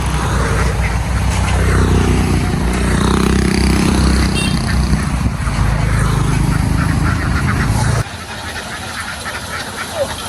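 A large flock of ducks quacking over the steady low running of a truck engine, which cuts off suddenly about eight seconds in while the quacking carries on.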